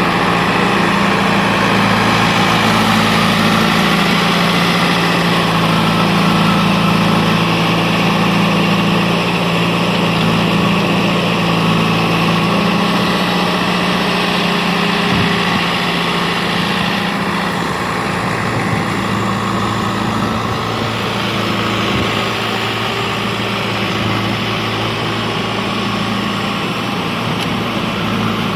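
Heavy machine's diesel engine running steadily, dropping slightly in level about two-thirds of the way through.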